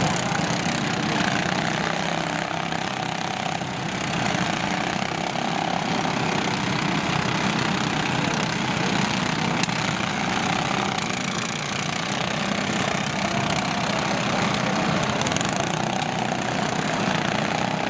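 Lawn tractor engines running steadily.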